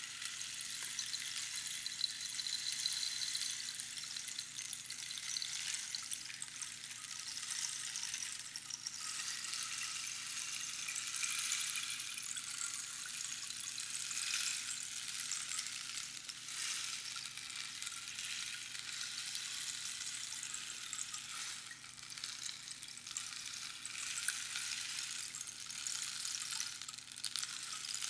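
Rainstick being turned, its pebbles trickling down past the pins inside in a continuous rain-like patter and hiss that swells and eases every few seconds.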